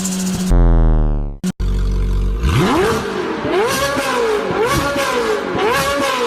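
Sports car engines. The first falls steadily in pitch and is cut off about one and a half seconds in. After a short gap a second engine revs up and drops back about once a second, four times in a row.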